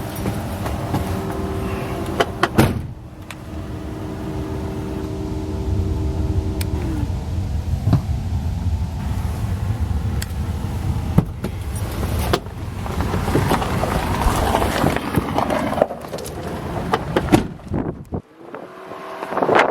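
2011 Ford F-150's 3.5 L V6 engine running steadily at idle, with a few sharp clicks and knocks. A louder rushing noise builds a little past the middle and cuts off shortly before the end.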